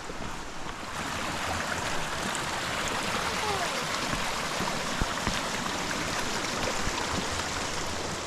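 Mountain creek rushing steadily, a constant wash of water noise.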